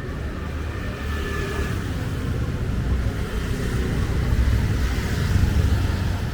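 Street traffic: a motor vehicle's engine rumble growing steadily louder as it approaches.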